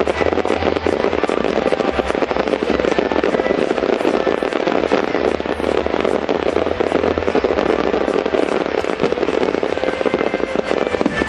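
Dense, continuous crackling and popping of many fireworks bursting at once, with music and its low bass line underneath.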